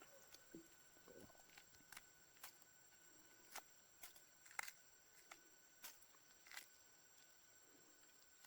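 Near silence with scattered faint, sharp clicks and ticks at irregular intervals, over a faint steady high-pitched hum.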